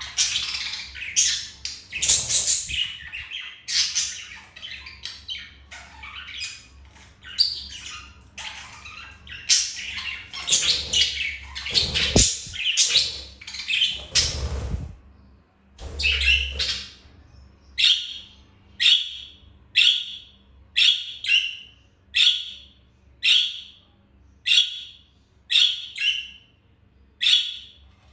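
Budgerigars chattering in a dense run of short chirps and squawks. About two-thirds of the way through this gives way to a regular series of single short calls, about one a second.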